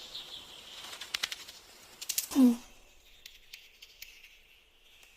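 Cartoon sound effects: faint chirping ambience with a few clicks, then a short, loud sound dropping quickly in pitch about two and a half seconds in.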